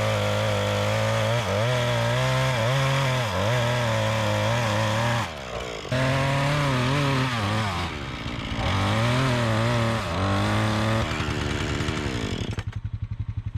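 Gas chainsaw running at high revs, its engine pitch sagging and recovering again and again, then dropping back to a pulsing idle near the end.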